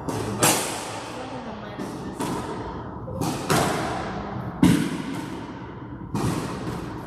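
Squash ball being hit back and forth: sharp cracks of racket strings and ball slapping off the court walls, about eight irregular hits, some in quick pairs, each ringing briefly in the court.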